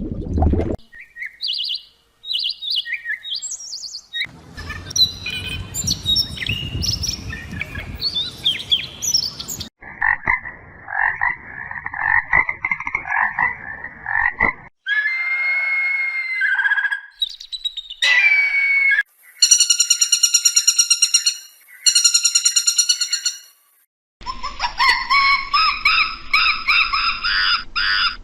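A string of short animal-call recordings cut one after another, each a different animal: bird chirps and song, then repeated croaking, frog-like calls and buzzing trills. Each call changes abruptly at a hard cut.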